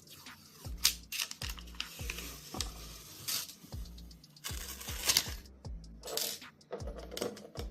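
Background music with a steady beat, over sharp clicks and rattles of hard plastic pieces of an acrylic display box being handled and fitted together.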